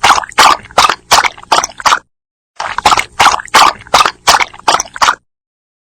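Dog lapping water, quick rhythmic laps about three a second. There are two bouts with a brief pause about two seconds in, and it stops about five seconds in.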